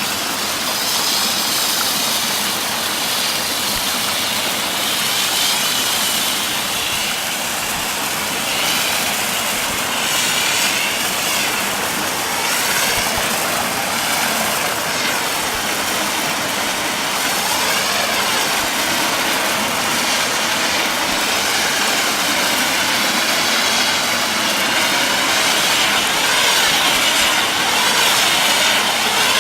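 Bonfire-night flares burning with a steady, loud rushing hiss that wavers slightly and swells a little near the end.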